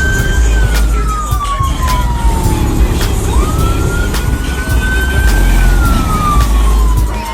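A siren wailing in slow cycles, twice rising, holding and then falling, over loud, deep, steady bass.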